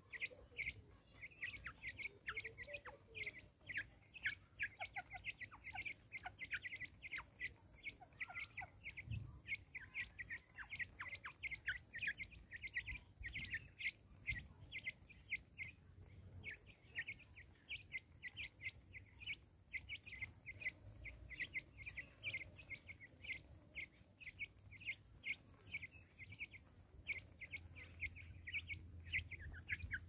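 Birds chirping: a steady, busy run of short, high chirps, several a second, without a break.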